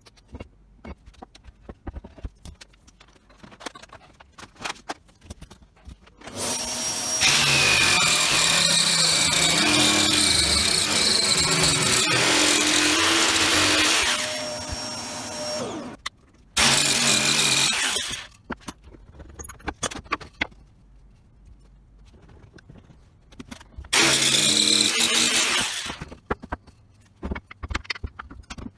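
A power tool running in three runs, one long of about nine seconds and two short ones, with scattered knocks and clicks of handling between them.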